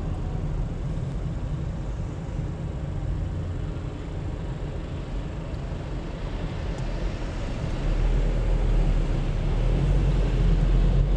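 Car engine and tyre noise heard from inside the car while driving, a steady low rumble that grows louder about eight seconds in.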